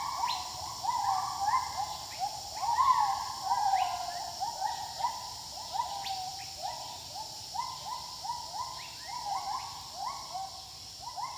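Wild gibbons calling in a chorus: a fast run of short, rising hoots, several voices overlapping, at about two or three notes a second. A steady high insect hum runs underneath.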